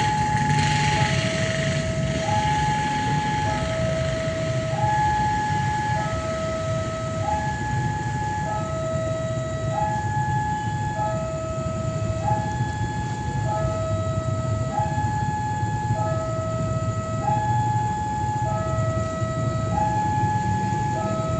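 Railway level-crossing warning alarm sounding a slow alternating high-low two-tone signal, about one pair every two and a half seconds, over the low rumble of railway machinery.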